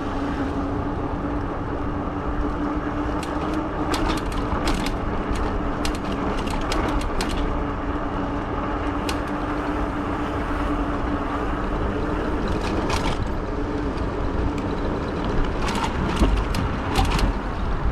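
Modded fat-tire e-bike riding along the street: wind on the microphone and road rumble, with a steady hum that fades out about fourteen seconds in. Scattered sharp clicks and knocks run through it.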